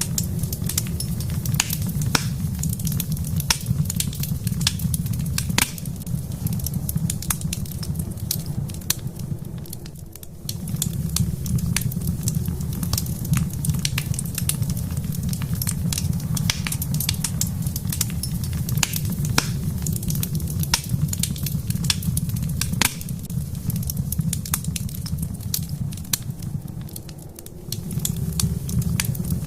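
Wood fire crackling in a fireplace: frequent sharp pops and snaps over a steady low rumble of the flames. The rumble dips briefly twice, about ten seconds in and again near the end.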